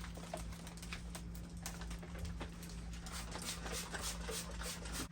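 Irregular light clicks and taps of small objects being handled, over a faint steady hum.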